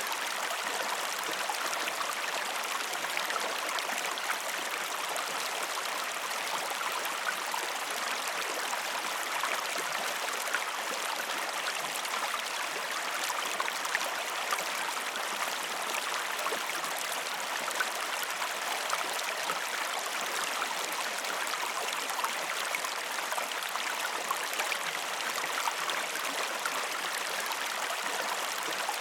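Waterfall: a steady rush of falling water, with fine splashing throughout.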